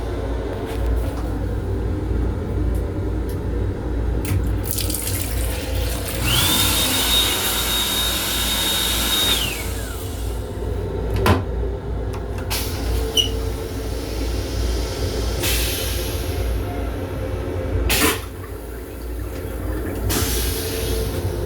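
Steady low rumble of a moving Metro-North M7 railcar, heard inside its restroom. About six seconds in, water runs in a restroom fixture for roughly three seconds with a high steady whine that slides down as it stops. Two sharp knocks follow, about eleven and eighteen seconds in.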